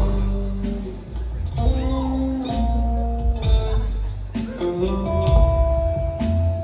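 Live rock trio playing an instrumental break between sung lines: sustained guitar notes over bass and a steady drum beat, recorded on a phone in the audience.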